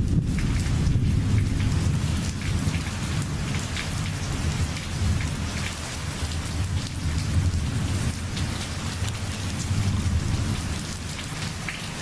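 Heavy rain falling, with individual drops ticking close by over a steady downpour and a deep rumble underneath that eases a little toward the end.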